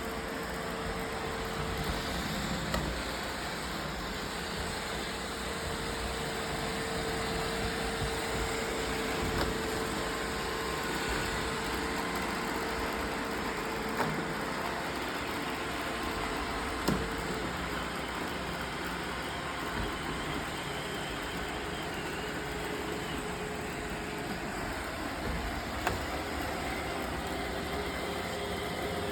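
Roomba robot vacuums running with a steady whirring and a hum that stops about halfway through, with a few light knocks.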